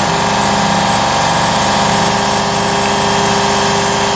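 Carvera Air desktop CNC mill making a shallow milling cut: a steady run of spindle and cutter, with the air-assist compressor running alongside.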